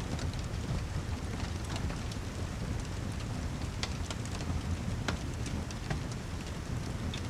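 Steady heavy rain with a low rumble underneath and irregular sharp ticks scattered through it.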